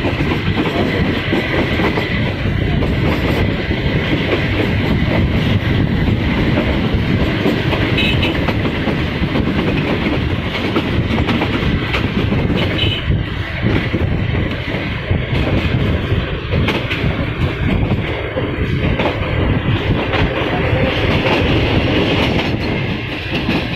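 Passenger train coaches running along the track, heard from an open coach window: a steady, loud rumble of wheels on the rails.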